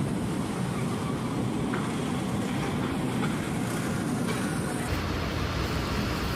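Heavy vehicle running with a steady low rumble and road or wheel noise. The sound changes abruptly about five seconds in, becoming deeper.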